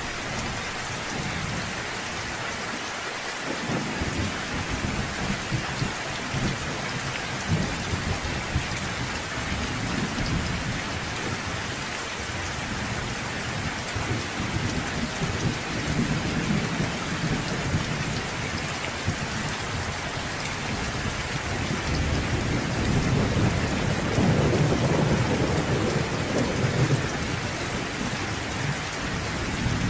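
Steady heavy rain falling, with rolling thunder rumbling low underneath; the thunder swells into a longer, louder rumble about three-quarters of the way through.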